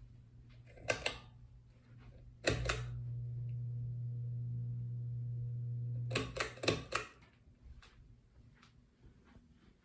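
Pull-chain switch on a Monte Carlo Weatherford ceiling fan clicking. A steady, low electrical hum runs for about four seconds after a click, then stops abruptly during a quick run of several more clicks.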